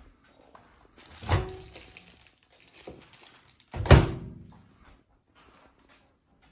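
Two heavy thunks about two and a half seconds apart, the second louder, each with a short ringing tail, like a door or panel being shut.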